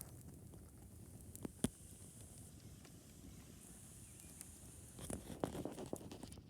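Campfire burning with a low steady rumble, scattered crackles and one sharp pop about a second and a half in, then a quick flurry of crackling near the end, over a faint hiss.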